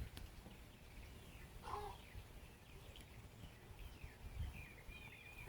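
Faint songbird chirping: a run of short, quick high chirps that comes in about halfway through and grows busier near the end, over a low outdoor rumble.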